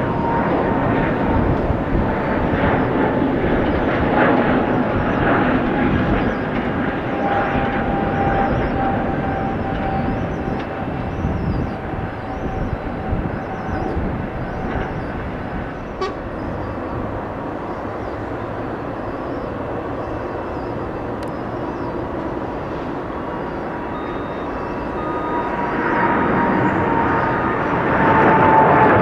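Jet airliner engines heard as the aircraft passes: a steady rushing noise with a whine that slowly falls in pitch. It fades about halfway through and grows louder again near the end as the next aircraft approaches.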